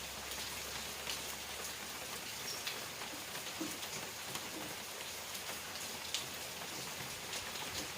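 Steady rain falling, an even hiss with individual drops ticking sharply on a nearby surface every so often.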